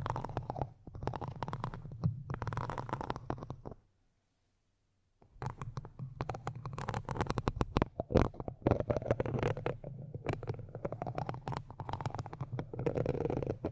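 Close-miked ASMR trigger sounds: dense crackly scratching over a low rumble. They stop for about a second and a half near four seconds in, then resume.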